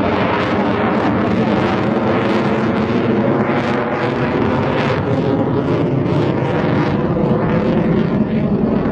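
Jet aircraft engine running loud and steady, a dense roar with a rough crackle and a stack of engine tones.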